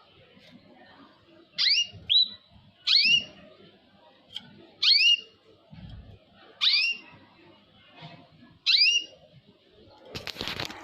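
A kept bird calling: short, loud, rising whistles repeated about every two seconds, six in all. Near the end comes a brief burst of rustling noise.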